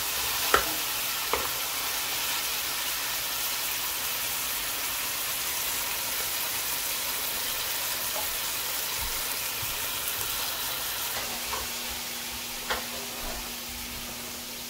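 Chopped vegetables sizzling in hot oil in an aluminium pot, a steady frying hiss. A metal spoon clinks against the pot twice in the first second or two. A low steady hum comes in about eleven seconds in.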